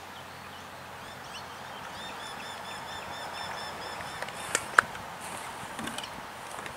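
A bird calling a quick run of repeated short chirps, about five a second, for around two seconds, over a steady outdoor hiss. Two sharp clicks sound a little after the middle.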